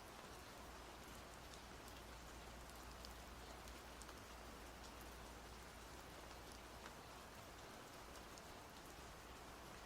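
Faint, steady rain: an even hiss with scattered small drop ticks and a low rumble underneath.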